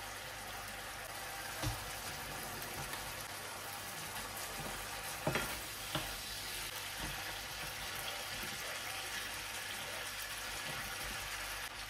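Chicken strips sizzling as they fry in a nonstick frying pan, stirred with a wooden spatula, with a steady hiss and a few short knocks against the pan.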